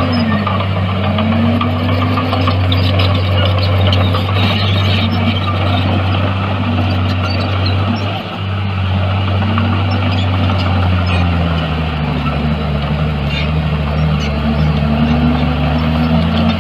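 Diesel engine of heavy earthmoving equipment working under changing load. Its pitch dips and recovers repeatedly and settles lower near the end, with light clanking and rattling over the steady engine sound.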